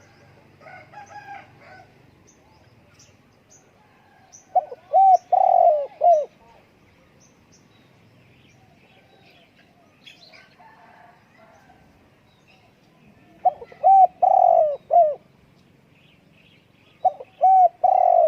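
Spotted dove cooing: three phrases of several notes each, spaced several seconds apart, the last still going at the end. Faint chirps of small birds sound between the phrases.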